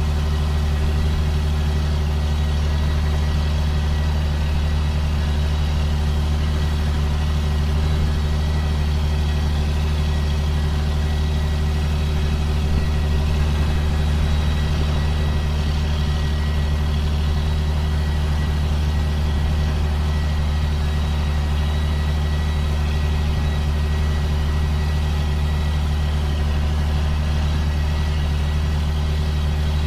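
2005 John Deere boom sprayer's engine running at a steady, unchanging low drone, with a faint steady high whine above it.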